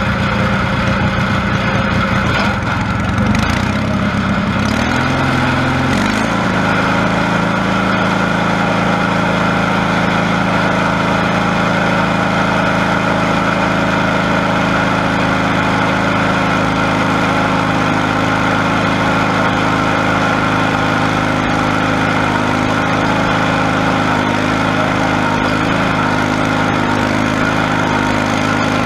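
Small lawn-tractor engine running under steady throttle during a tractor pull; its pitch shifts and rises in the first several seconds, then holds steady.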